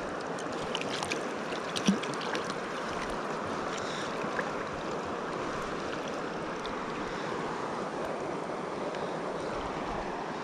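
Steady rush of flowing river water, with a few brief splashes and ticks in the first few seconds.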